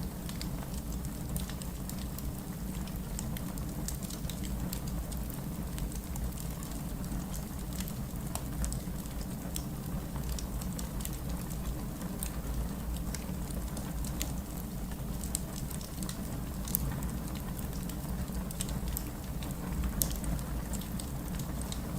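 Steady rain with a low rumble, mixed with a wood fire crackling in irregular sharp pops and snaps. The pops are loudest a little before the end.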